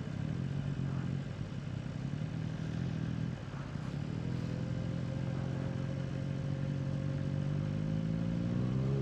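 Motorcycle engine running at low, steady revs.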